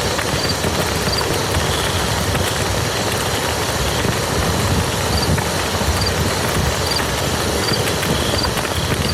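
Steady rain falling on muddy ground, a dense, even patter of drops.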